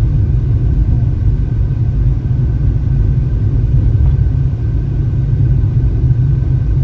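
A car driving on a mountain road: a steady low rumble of engine and tyre noise.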